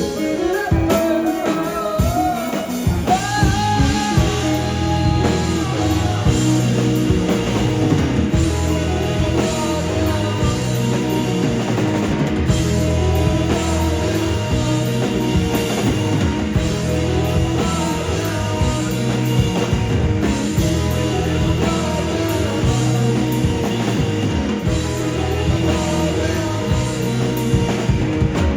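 Live rock band playing loudly, with drum kit and guitars, and a voice singing over it in the first few seconds.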